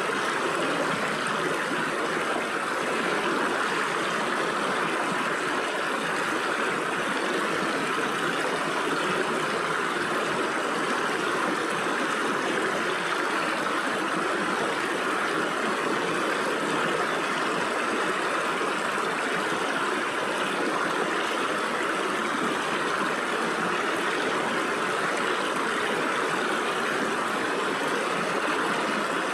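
Stream water rushing and splashing through gaps between rocks, a steady, even sound.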